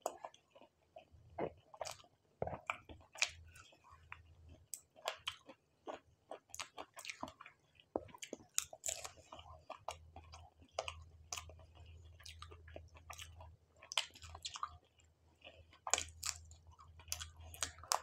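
Close-miked chewing and biting of fried food with noodles, a steady run of irregular crisp crunches and clicks from the mouth, with a faint low hum underneath.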